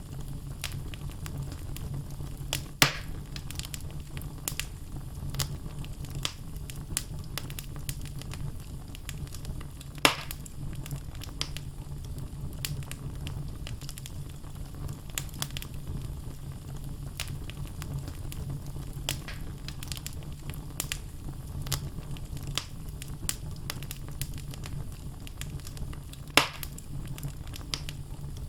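Wood logs burning in a fireplace: a steady low rumble under constant small crackles, with three louder sharp pops spread through.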